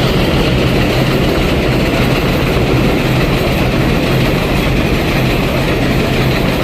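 Steady, loud rumble of a moving vehicle, with a low steady hum underneath.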